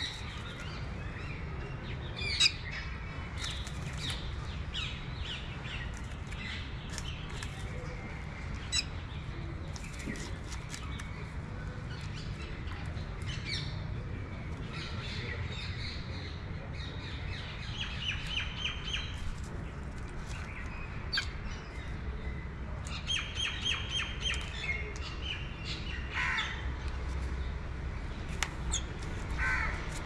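Birds calling: many short chirps and calls, with twice a quick run of evenly repeated notes, over a steady low rumble.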